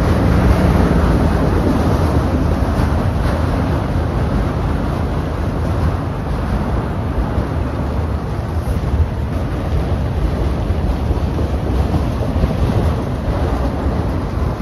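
Freight train of autorack cars rolling past: a steady rumble of steel wheels on the rails, easing a little about five seconds in.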